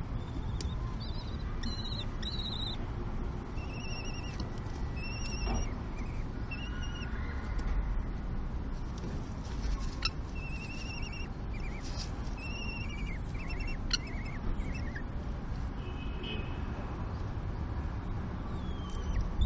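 Short, high, wavering bird calls repeated at irregular intervals throughout, over a steady low rumble.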